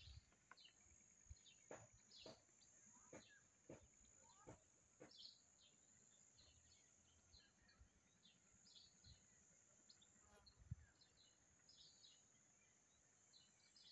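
Faint outdoor ambience: many short, high chirps of small birds, with a steady high-pitched hum underneath. There is one brief knock about three-quarters of the way through.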